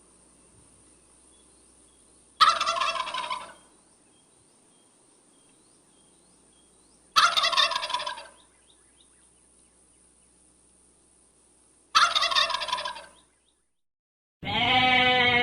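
Domestic turkey gobbling three times, each a rattling call about a second long, a few seconds apart. Near the end a different animal's call begins.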